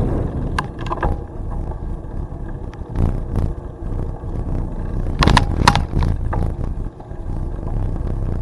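Low rumble of wind on the microphone and tyres on the trail while riding a bicycle, broken by a few sharp knocks from the bike, in small clusters about one, three and five and a half seconds in.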